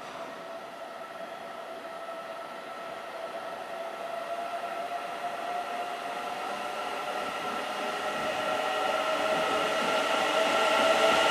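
JR East E001 series Shikishima train approaching along the track, its running noise growing steadily louder, with a steady hum of a couple of tones over it.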